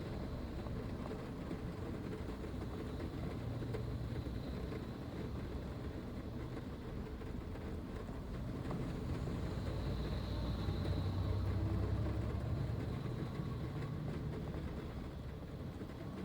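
Steady low rumble of a vehicle, a little louder about two-thirds of the way in.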